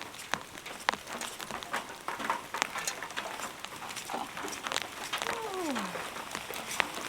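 Rain pattering on a rain tarp close to the microphone, a stream of sharp scattered drop ticks over a light hiss. About five seconds in comes a single short animal call that falls in pitch.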